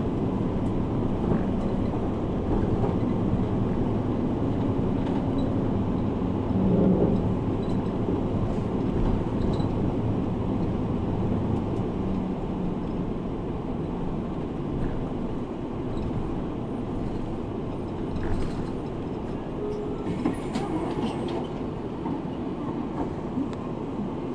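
Route bus driving, heard inside the cabin: a steady engine and road noise with a few light rattles about three quarters of the way through.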